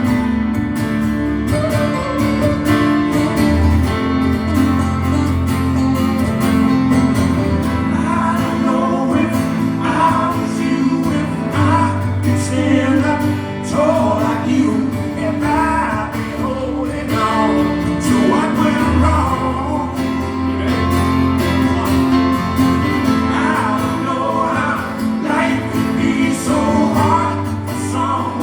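Live acoustic guitar strummed steadily, with a singing voice over it from about eight seconds in.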